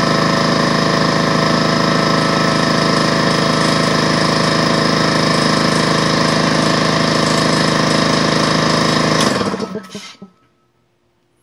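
DeWalt 4.5-gallon air compressor running steadily as it pumps up the tank, then the motor cuts off about nine seconds in and winds down within a second: the pressure switch stopping it at the 200 psi maximum tank pressure.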